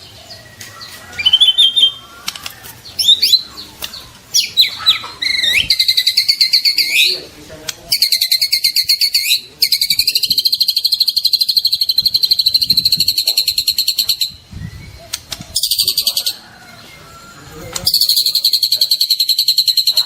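Juvenile white-rumped shama singing: a few varied whistled phrases in the first seconds, then long runs of rapid, high repeated notes lasting several seconds each, broken by short pauses.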